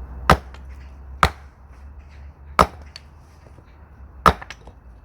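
Axe striking firewood to split it, four sharp chops at uneven intervals.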